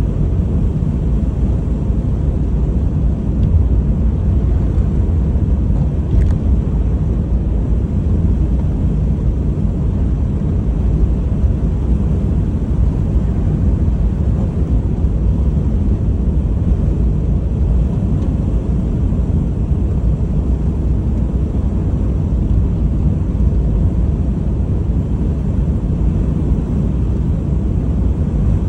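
Steady low rumble of a Honda HR-V driving along, road and engine noise without change in pace.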